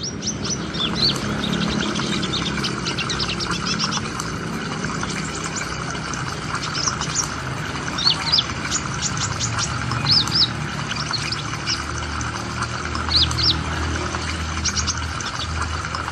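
Small bird calling in quick runs of short, high chirps, coming in clusters every second or two, over a steady background hiss and low rumble.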